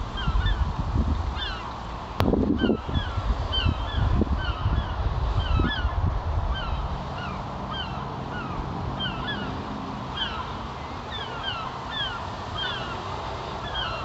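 Small birds chirping steadily, short calls several every second, over low rumbling and knocks, with a sharp click about two seconds in.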